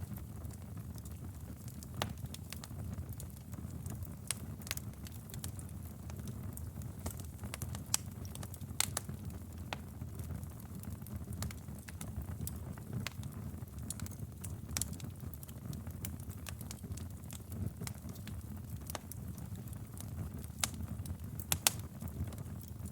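Wood fire burning in a fireplace, with a steady low rumble of flames and frequent sharp crackles and pops; several louder pops stand out.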